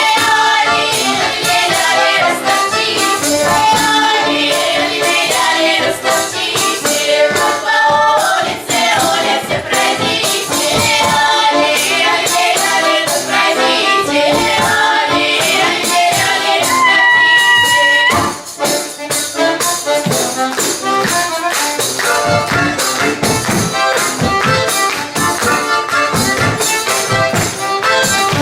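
Live music: a lively piece with melodic instruments over dense rhythmic percussion. A high note is held about 17 seconds in, followed by a brief break before the playing resumes.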